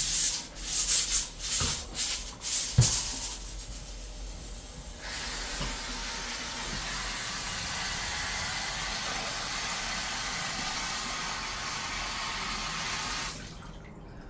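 Water running from a kitchen tap, first in a few short uneven spurts, then in a steady stream for about eight seconds before it is shut off suddenly.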